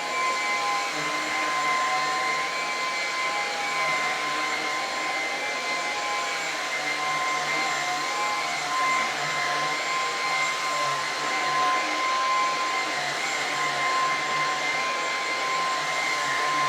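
Lupe Pure cordless stick vacuum cleaner running steadily: a constant rush of air with a high motor whine.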